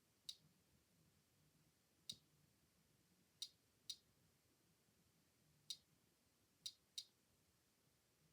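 A REM pod giving faint, sharp clicks at irregular intervals, seven in all, some in quick pairs, which the host takes as a sign of a spirit near the device.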